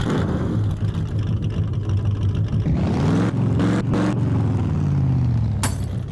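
A car engine running with its pitch rising and falling, with a few sharp clicks over it.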